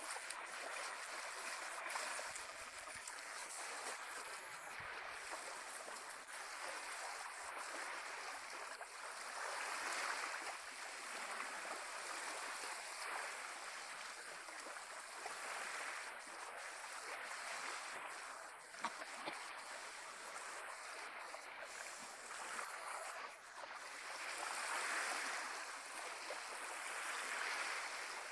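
Small Caribbean sea waves washing and lapping at the shore, swelling and easing every several seconds.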